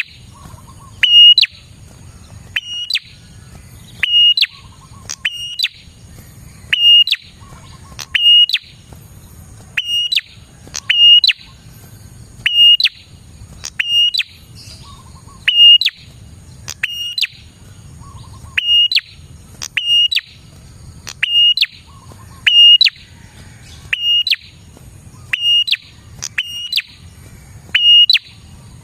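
Prinia (prenjak) calling over and over: a short, sharp, high phrase repeated about every second and a half.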